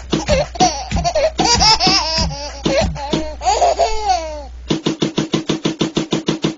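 Baby laughing in quick bursts and high squeals over a steady low background of music. About three-quarters of the way through, a fast, even pulsing rhythm takes over.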